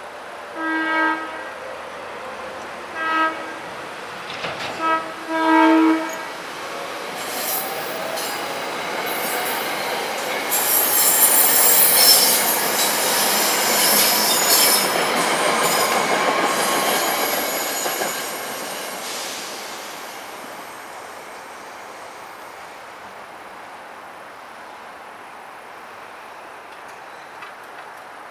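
SEPTA Silverliner IV electric commuter train sounding its horn four times for the grade crossing, the third blast the shortest. The train then passes, its wheels clattering and squealing on the rails, loudest about halfway through, and fades away over the last third.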